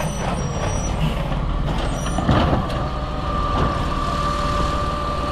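Diesel engine of an Autocar recycling truck with a Labrie Automizer side-loader body running with a heavy rumble, with a brief louder knock a little past two seconds in and a steady high whine that starts about three seconds in and holds.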